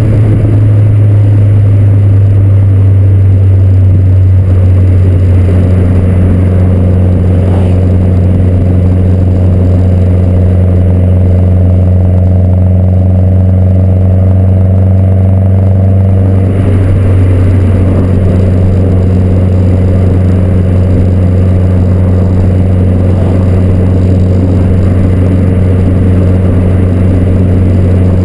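2011 Mazdaspeed 3's turbocharged 2.3-litre four-cylinder running through a catted downpipe and aftermarket axle-back exhaust, holding a steady speed with a loud, constant low drone that does not rise or fall.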